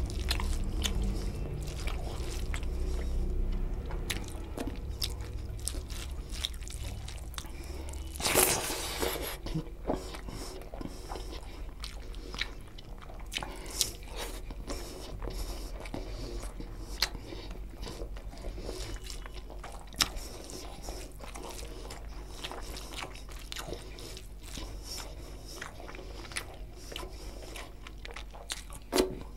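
Close-miked chewing and wet mouth sounds of a person eating chicken curry and rice by hand, with many small clicks and smacks. A louder, noisier burst comes about eight seconds in.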